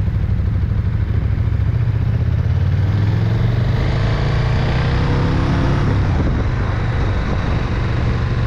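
KTM 1290 Super Duke R V-twin engine running under way with wind rush over the microphone; from about three seconds in the engine note climbs as the bike accelerates.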